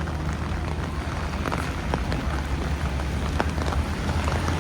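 Steady rain falling on a city street, with many small drop ticks over a continuous low hum.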